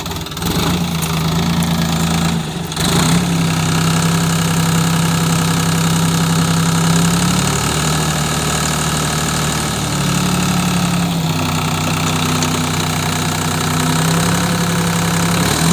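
Diesel engine of heavy farm or earth-moving machinery running loud and close, its pitch stepping up and down several times.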